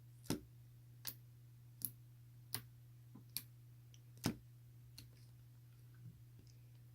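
A series of sharp clicks or taps, about one every three-quarters of a second, fading to a few fainter ones after about four and a half seconds, over a steady low electrical hum.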